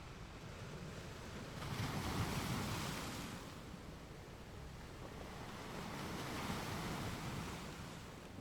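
Ocean waves washing onto a beach. One wave surges up and breaks about two seconds in and then fades, and a softer wave rises and falls a few seconds later.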